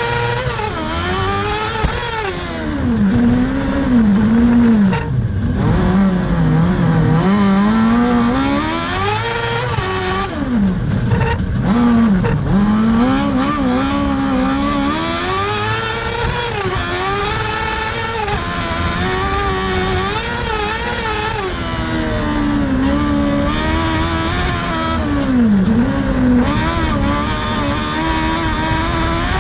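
Kartcross race car's engine revving hard and continuously, its pitch climbing through the revs and dropping sharply on lifts and gear changes, as it is driven at race pace.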